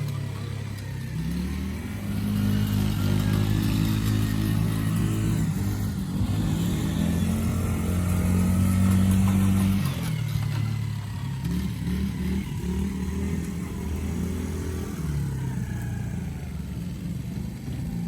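An engine runs throughout, its pitch stepping up and down several times as it revs and eases off, as a working machine does under changing load.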